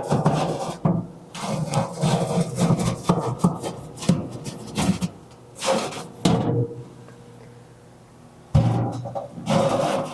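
Heavy cast iron Dutch oven being worked into a wood cookstove's oven, with repeated metal scrapes and knocks, over background music.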